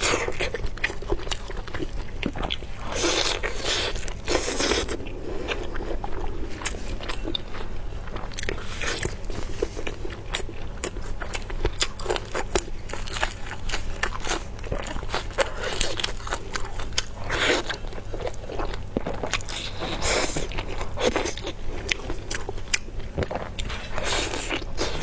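Close-miked eating: crunching bites and chewing, made up of many small sharp crackles with a few longer crunchy bursts, over a faint steady low hum.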